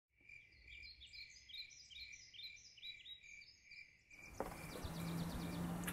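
Small birds chirping in quick, varied calls over a steady repeated high note. About four seconds in, louder outdoor background noise comes in with a single click and a low steady hum under the birdsong.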